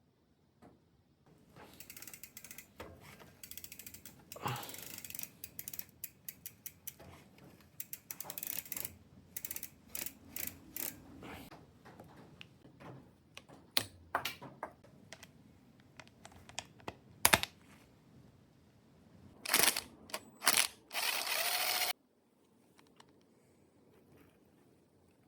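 Hand tools at work on a bicycle's crankset: irregular metallic clicks, ratcheting and short scrapes, with a louder stretch near the end that stops abruptly.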